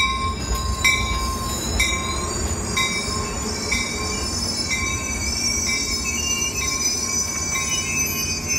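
Caltrain passenger train on the rails with its wheels squealing in several high, steady tones over a low rumble. A sharp metallic tick repeats about once a second through the first half.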